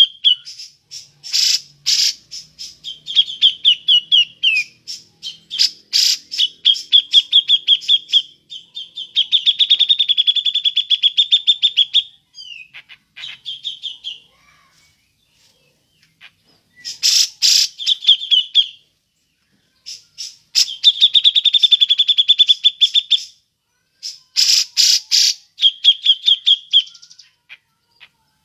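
Cucak jenggot (grey-cheeked bulbul) calling: sharp clipped 'ngepik' notes mixed with fast rattling trills, in bursts of a few seconds separated by short pauses.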